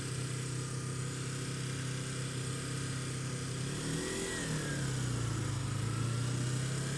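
Kawasaki Ninja 250 parallel-twin engine running at low, steady revs. About four seconds in its pitch dips briefly, then it settles a little lower.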